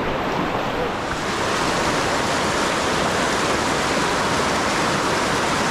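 Fast river water rushing through rapids, a steady wash that grows a little brighter and louder about a second in.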